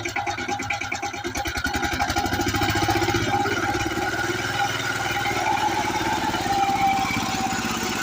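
Single-cylinder diesel power tiller engine running. Its firing beat quickens over the first few seconds as the engine picks up speed, then it runs steadily.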